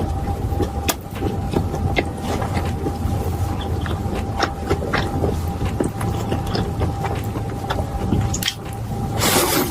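Close-miked eating sounds: scattered clicks of chewing and mouth noises over a steady low hum, with a louder crunchy burst near the end.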